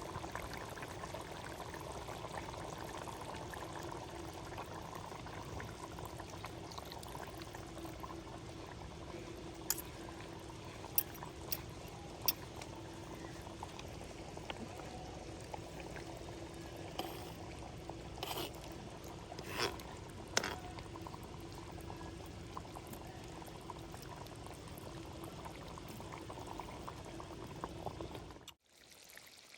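Running water, a steady even rush with a few sharp clicks or taps mixed in; it cuts off abruptly near the end.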